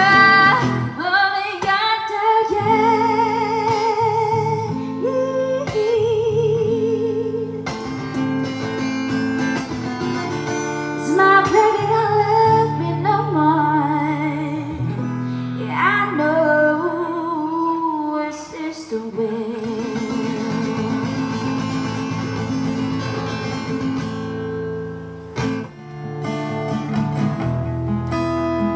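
Live acoustic guitar strummed under a singer's voice holding long notes with vibrato. The voice stops about nineteen seconds in and the guitar plays on alone.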